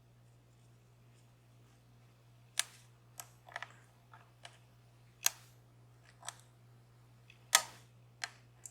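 Sharp, irregular metal clicks of a lock pick and tension tool working the pins of a DOM Plura lock cylinder, about nine in all, over a steady low hum.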